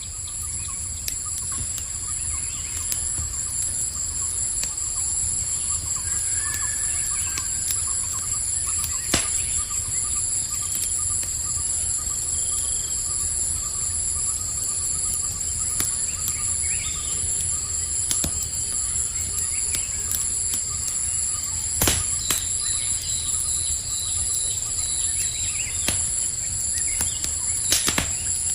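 Campfire crackling with sharp pops, the loudest about a third of the way in and twice near the end, over a low steady rumble. A continuous high chorus of night insects trills throughout.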